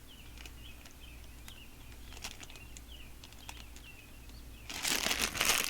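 A small bird chirping outside over and over, short high falling chirps about twice a second. Near the end, loud crinkling of plastic packaging takes over.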